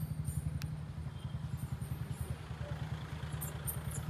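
A motor vehicle's engine idling, a steady low throb.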